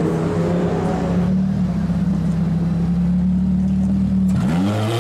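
A supercar engine held at steady high revs, then dropping off about four seconds in and revved back up in a rising sweep near the end.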